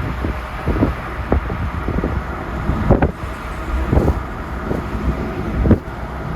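Car driving, with steady road and engine rumble and a few irregular thumps, the strongest about three, four and nearly six seconds in.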